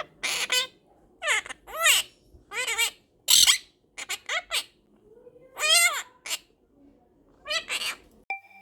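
Quaker parrot (monk parakeet) giving a run of about ten short, loud, squawky calls, several arching up and down in pitch.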